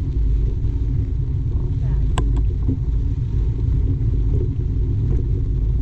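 Steady low rumble of wind on the microphone and mountain bike tyres rolling over a dusty dirt trail. There is a single sharp click about two seconds in.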